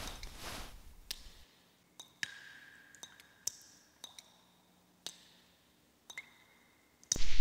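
Water dripping in a cave: sparse, irregular single drips, each a sharp plink with a short ringing tone, over a faint hush.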